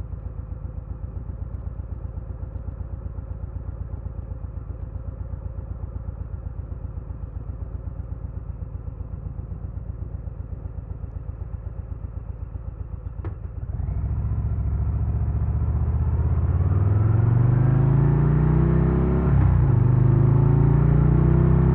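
2022 Harley-Davidson Low Rider S's Milwaukee-Eight 117 V-twin idling with a steady low pulse, then about 13 seconds in a click and the engine pulling away, revving up with rising pitch and a brief drop at a gear change near the end.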